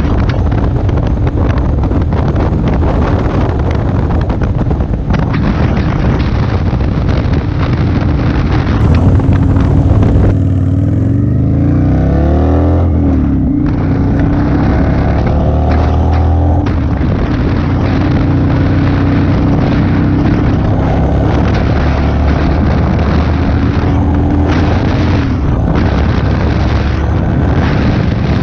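Motorcycle engine running at road speed, with wind rushing over the microphone. About ten seconds in, the engine note rises twice in a row as the bike accelerates, then settles back to a steady drone.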